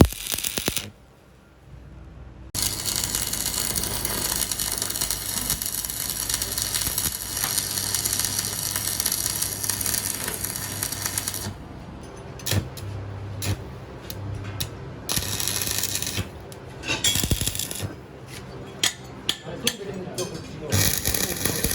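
A steady hiss over a low hum for several seconds, then a run of short metallic clicks and knocks, like tools being handled on metal.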